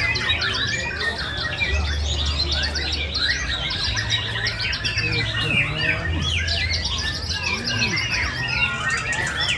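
Many caged songbirds singing at once in a songbird contest, a dense overlapping stream of rapid chirps, trills and whistles with no pause. A low hum comes and goes underneath.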